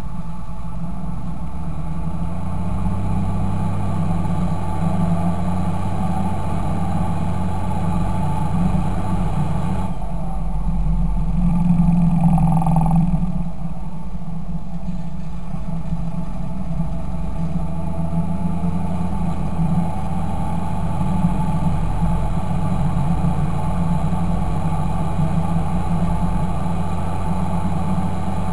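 Fendt 926 Favorit tractor's diesel engine running steadily, briefly swelling louder about twelve seconds in.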